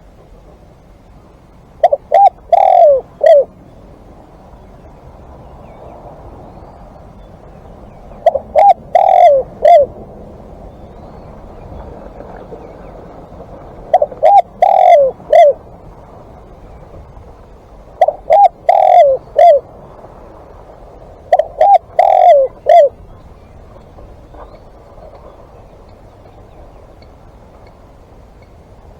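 Spotted dove cooing loudly: five phrases of several quick coos each, spaced about four to six seconds apart.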